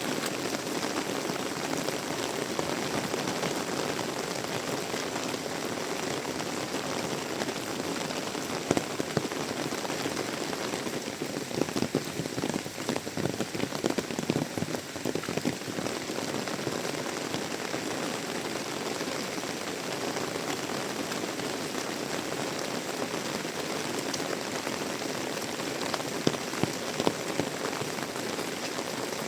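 Heavy tropical rain falling steadily and pattering on surfaces, with a stretch of louder, closer drop hits through the middle and a few sharp ones near the end.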